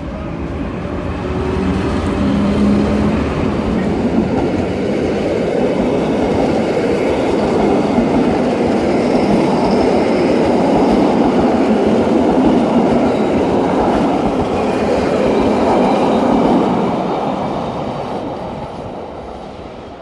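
Rhaetian Railway Ge 4/4 II electric locomotive and its passenger coaches passing close by on the metre-gauge track. The noise builds as the locomotive draws level, holds steady as the coaches' wheels roll past on the rails, and fades near the end as the train pulls away.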